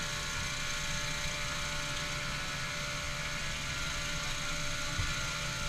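Steady drone of a vehicle's engine and road noise, with a faint constant tone over it.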